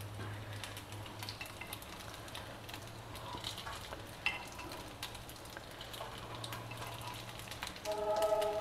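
Paniyarams sizzling quietly in oil in a paniyaram pan, with scattered light clicks and scrapes as they are lifted out onto a steel plate.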